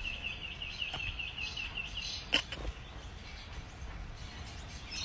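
A bird's rapid, evenly repeated high chirping, about five chirps a second, stopping about two seconds in; a single sharp click follows.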